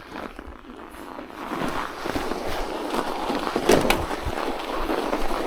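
Bicycle tyres rolling and crunching over snow, growing louder about a second and a half in, with a sharp click about three and a half seconds in.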